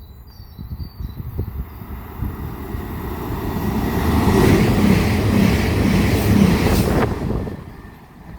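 CrossCountry Class 221 Super Voyager diesel-electric multiple unit passing through at speed. A rising rush of engines and wheels on rail builds to a loud passage with a regular beat about twice a second, then cuts off sharply about seven seconds in as the last car clears.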